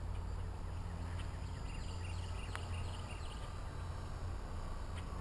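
Blade 200 SRX electric RC helicopter hovering on low throttle, its motor and rotor giving a steady low hum.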